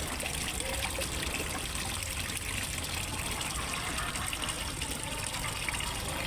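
Water pouring and trickling steadily into a fish pond.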